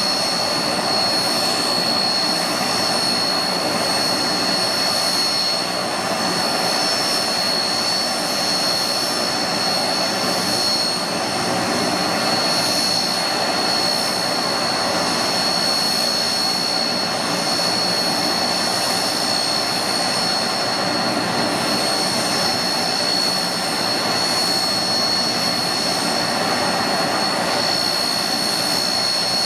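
Antonov An-12's Ivchenko AI-20 turboprop engines running steadily after start-up, a high-pitched whine over a constant rushing roar.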